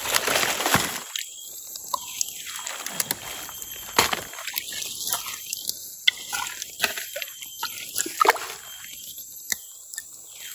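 Footsteps wading through a shallow forest stream: water sloshing and splashing, with scattered sharp knocks and clicks.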